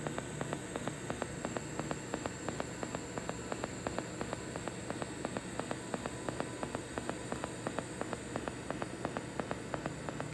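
TIG welding arc from a HITBOX TIG welder fuse-welding steel with no filler rod. A steady hiss with a fast, even ticking several times a second.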